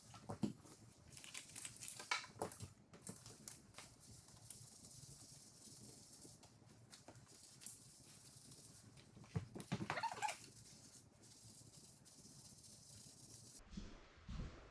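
Scattered light scrapes, taps and rubbing of hand work on tile, over a steady faint hiss.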